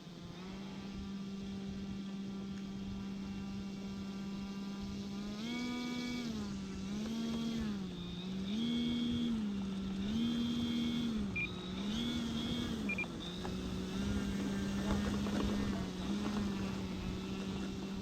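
Engine and propeller of a 75-inch Seagull Models T-34 Mentor radio-controlled plane running steadily, then rising and falling in pitch about every second and a half for several seconds before settling steady again. A couple of short high beeps come near the end.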